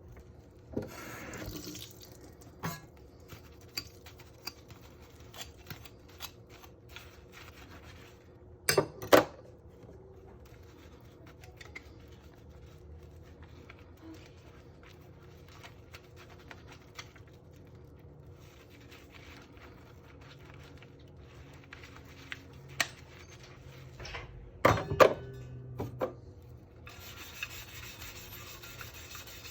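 Dishes being handled and washed in a sink: scattered clinks and knocks over a faint steady hum, with louder clatters about nine seconds in and again near twenty-five seconds. A steady hiss sets in near the end.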